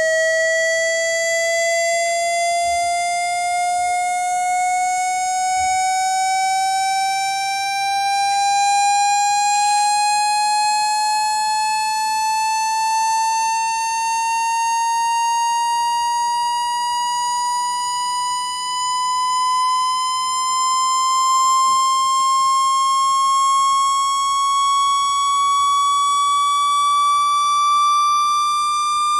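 Electronically generated test tone for ejecting water from a phone speaker: a single loud, slightly buzzy tone sweeping slowly and steadily upward in pitch.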